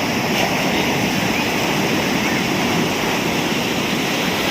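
Steady rushing water: a continuous, even noise without breaks or distinct splashes.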